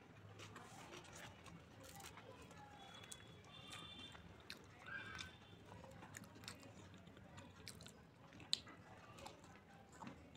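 Faint chewing of naan and palak paneer with the mouth closed, with soft mouth clicks and a sharper click about eight and a half seconds in.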